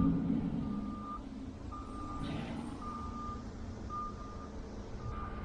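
A vehicle's reversing alarm beeping steadily, about one beep a second, each beep a single held tone of about half a second, over a low rumble.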